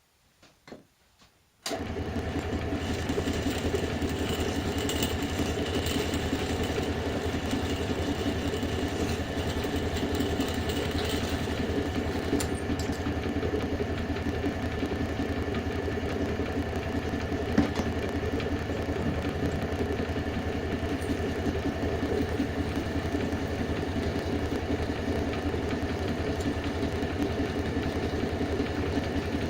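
An electric motor switched on after a few faint clicks, then running steadily with an even hum.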